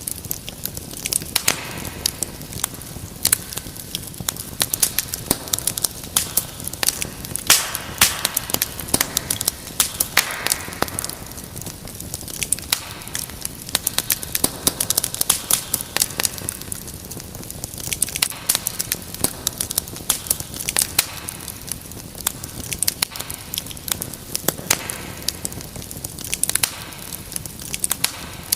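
Wood fire crackling in a fireplace: a steady hiss under dense, irregular sharp pops and snaps.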